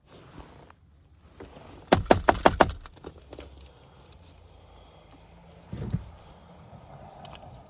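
Handling noises inside a car: a quick run of about six sharp clicks and rattles about two seconds in, then a single dull thump near six seconds, as a frozen keyless-entry key fob and keys are handled while the car fails to register the fob.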